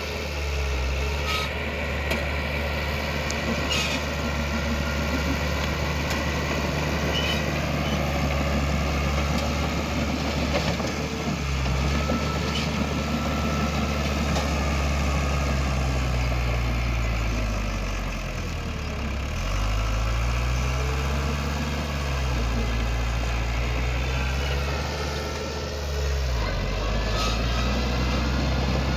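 Heavy diesel engine of earthmoving machinery running steadily. Its pitch drops and climbs again a couple of times past the middle as the load changes. A few short knocks sound through it.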